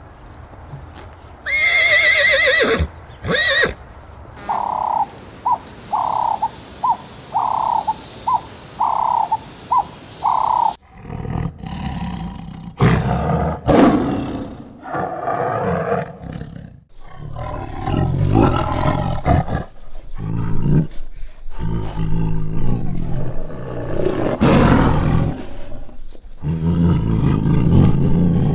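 A horse whinnies near the start, followed by a run of about nine short, evenly spaced high calls. From about a third of the way in, a tiger roars and growls again and again, each call lasting a second or two with short breaks between.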